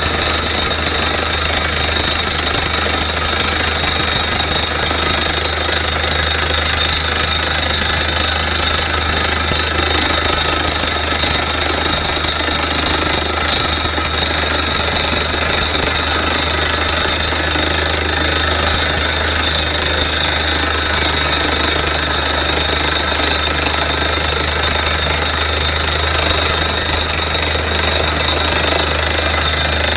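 Borewell drilling rig running steadily, its air hammer drilling with the engine and compressor going without a break.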